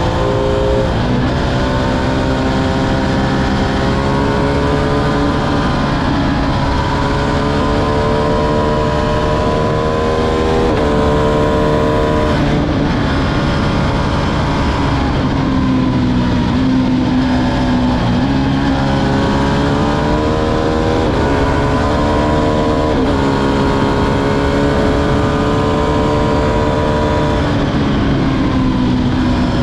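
Ducati Streetfighter V2's 955 cc L-twin engine running under way, with wind noise. Its pitch climbs slowly and falls sharply several times, about 11, 13 and 23 seconds in.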